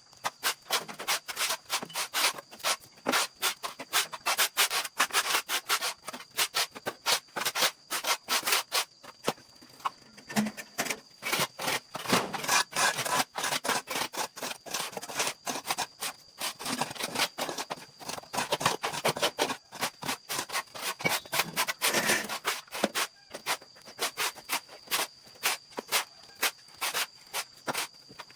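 A stiff brush scraping over a hard surface in quick repeated strokes, about four a second, kept up without a break.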